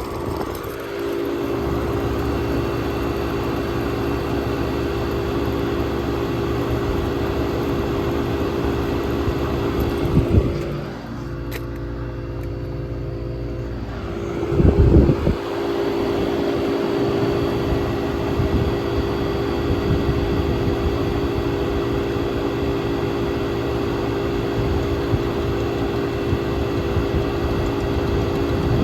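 1967 Chrysler Airtemp Imperial air conditioner running with a steady mechanical hum. Its low rumble drops out for a few seconds about eleven seconds in, then comes back after a brief loud surge.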